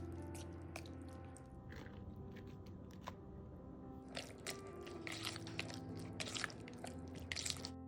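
Crisp crunching and clicking of food being prepared, scattered at first and coming thick and fast in the second half, over background music.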